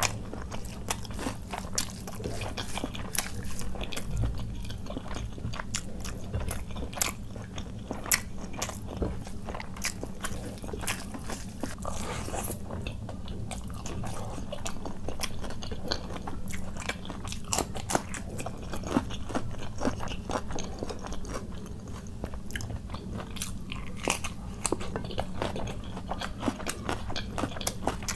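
Close-miked chewing and mouth sounds of a person eating khichuri (rice and lentils) with chicken curry by hand, with frequent sharp smacking clicks throughout.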